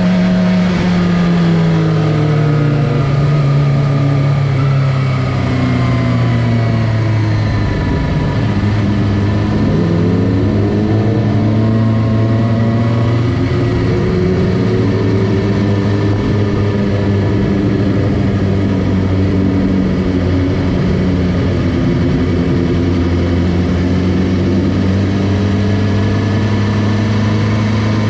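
Suzuki GSX-R600 inline-four engine running at low revs as the bike rolls along slowly, the revs easing down over the first few seconds and then holding steady.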